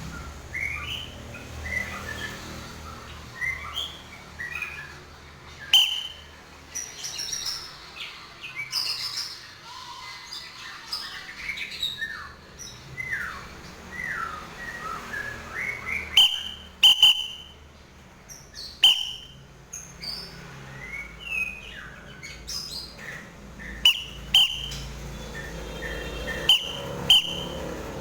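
White-breasted woodswallow (kekep babi) chirping in a stream of short calls, with several sharp clicks or knocks among them.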